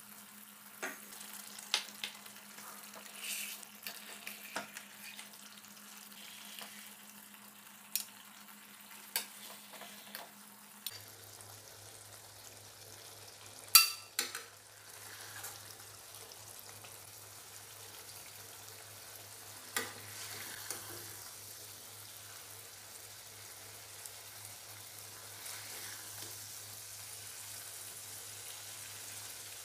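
Hot paneer masala gravy sizzling in a steel kadai while a spatula scrapes and clinks against the pan, with a loud metal clatter about 14 s in and another about 20 s in. A steady low hum runs underneath and drops in pitch about 11 s in.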